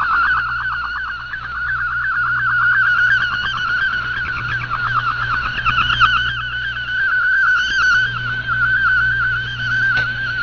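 Multi-tone (MFSK) digital data signal received on a shortwave radio: a band of warbling tones stepping rapidly in pitch, over a steady low hum, with a single click near the end.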